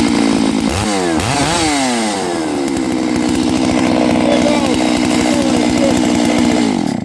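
Knockoff Stihl 660 92 cc chainsaw on a chainsaw mill running at high revs; its pitch drops sharply about a second in and climbs back, then holds steady. The sound stops suddenly near the end.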